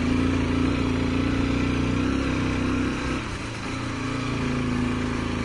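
Honda XR dual-sport motorcycle's single-cylinder engine running steadily, with a brief drop in level a little past halfway before it steadies again.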